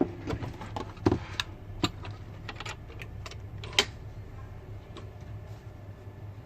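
Irregular light clicks and taps of small hand tools working on a smartphone. The loudest come about one, two and four seconds in, over a steady low hum.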